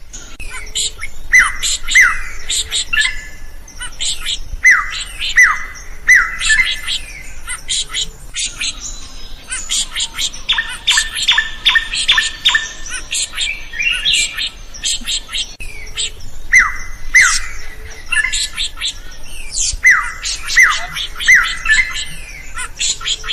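A drongo singing energetically, mixing sharp falling whistles, harsh squawking notes and clicks. About 10 seconds in it breaks into a fast rattling chatter for a few seconds.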